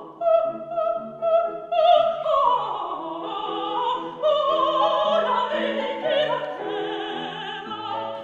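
Operatic singing with vibrato over classical accompaniment, several sustained notes and moving lines.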